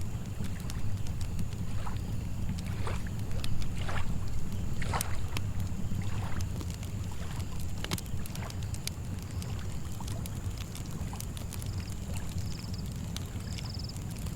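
Campfire crackling in scattered sharp pops over a steady low lapping of lake water, with a constant high insect drone. Short, evenly repeated cricket chirps come in near the end.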